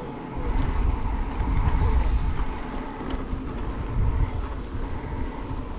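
Wind buffeting the microphone of a rider on a moving e-bike: a gusty low rumble that swells and eases, strongest about two seconds in and again around four seconds.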